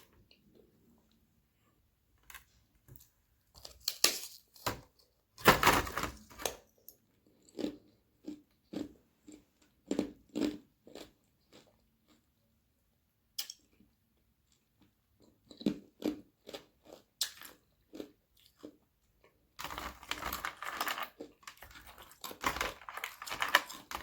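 Thin sheets of frozen carbonated water bitten and chewed close to the microphone. A loud crunching bite comes about five seconds in, followed by a run of single crunchy chews. After a pause of a few seconds, a dense stretch of crunching comes near the end.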